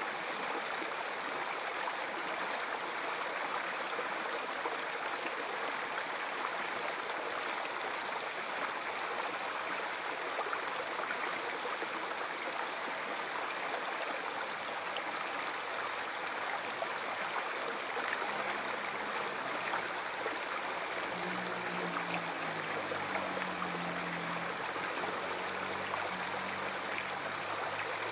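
River water flowing in a steady, continuous rush. A faint low hum comes in about two-thirds of the way through.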